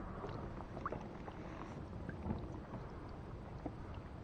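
Faint low rumble with a few small scattered ticks and knocks from a fishing kayak on the water.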